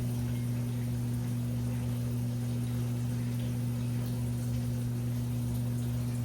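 Washing machine running: a steady low motor hum over a wash of water noise, unchanging throughout.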